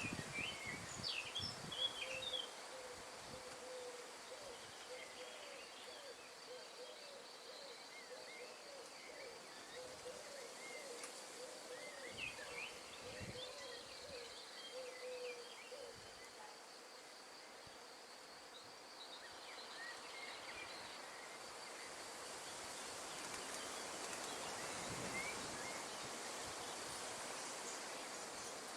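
Wind blowing steadily through the trees, swelling a little near the end, under a thin, steady insect drone and scattered short bird chirps. A low wavering call runs through the first half.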